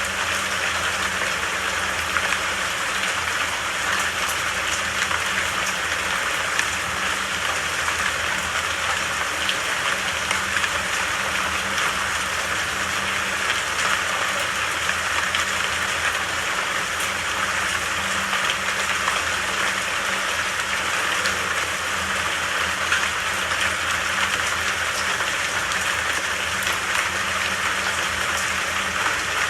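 Steady rain falling in a forest, an even hiss with small drop patter and no pauses.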